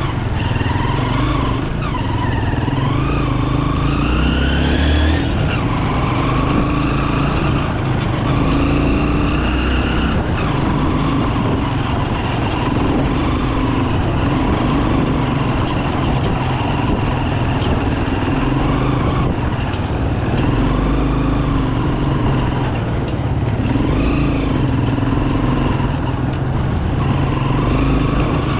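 Bajaj Pulsar 200 motorcycle's single-cylinder four-stroke engine running under way, its pitch rising and falling repeatedly as the rider accelerates and eases off.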